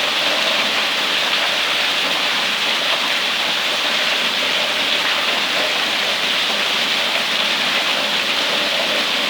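Steady heavy rain falling on surfaces, an even hiss without breaks.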